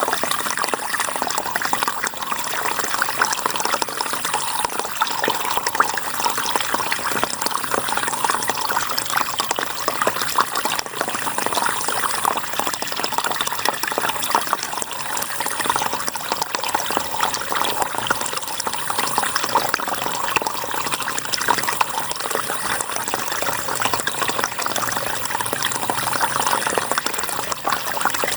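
River water flowing steadily, an even rushing sound with no breaks.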